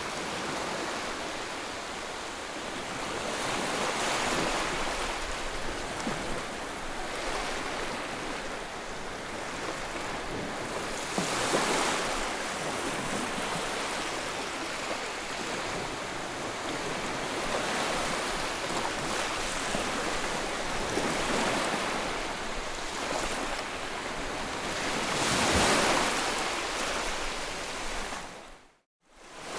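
Ocean waves washing on a shore, a steady rush that swells and eases as each wave breaks, with the loudest surges a few times. Near the end the sound drops out briefly to silence.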